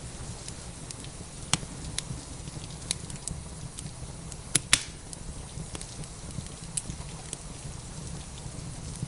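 Wood fire crackling, with scattered sharp pops and a loud close pair of snaps about halfway through, over a steady low rumble and an even hiss of rain.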